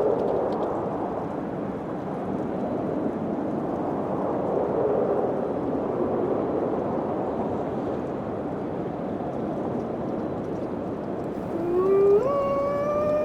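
Wind blowing in a steady rush that swells and eases. Near the end an animal howl starts low, rises in pitch and holds.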